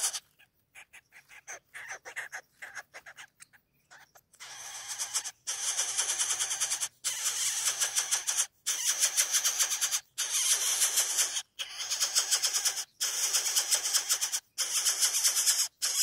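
A coucal chick giving harsh, rasping begging calls, asking to be fed. After a few faint clicks, the rasps come in runs of about a second and a half with short breaks between, each run a fast, pulsing hiss.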